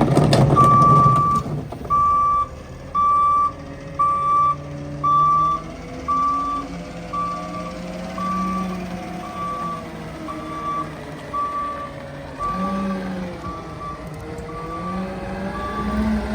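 Garbage truck's reversing alarm beeping about once a second, growing fainter, over the truck's engine running, here a CNG-powered Heil PowerTrak rear loader.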